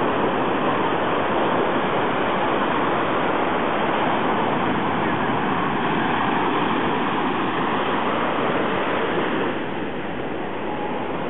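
Beach ambience: a steady rushing noise of surf and wind, dropping a little near the end.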